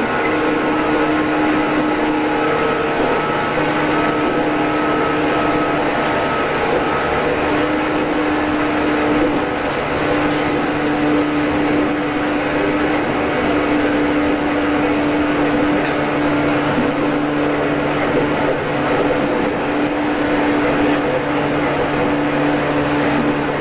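JR East 113 series electric train running at a steady speed, recorded from inside the car: a constant humming tone that neither rises nor falls, over steady rolling noise.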